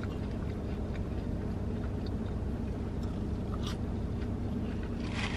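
Quiet chewing of french fries, with small clicks and a sharper crunch about four seconds in, over a steady low rumble in a car's cabin. A hiss rises near the end.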